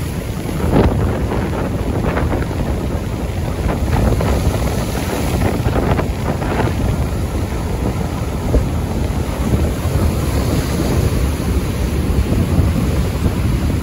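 Strong wind gusting and buffeting the microphone in a continuous low rumble.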